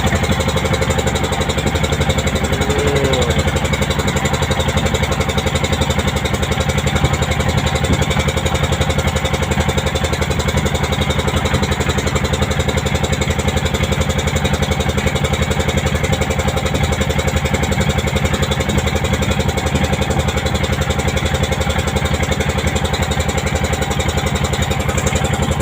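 A small wooden motorboat's inboard engine running steadily at constant speed, its firing pulses evenly spaced and unbroken.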